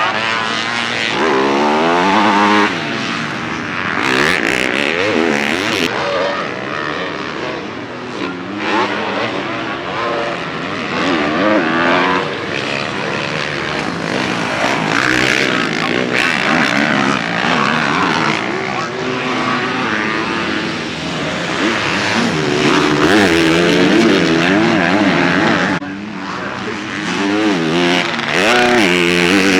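Motocross dirt bike engines revving on a track, pitch climbing and dropping again and again with the throttle and gear changes, several bikes overlapping.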